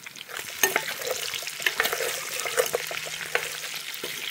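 Pork ribs and freshly added onion sizzling in a hot cazuela, a steady frying hiss with many small crackles and pops. The lively sizzle is the sign that the pot is hot and searing well.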